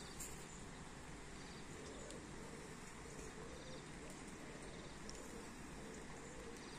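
Steady summer rain falling, an even hiss with a few sharper drips now and then.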